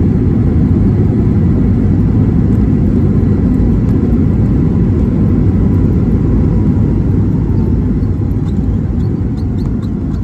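Boeing 737 MAX 8 cabin noise on the ground just after landing: a steady, loud rumble of engines and rolling wheels that eases off toward the end as the aircraft slows. A faint tone falls in pitch, and a few light clicks come near the end.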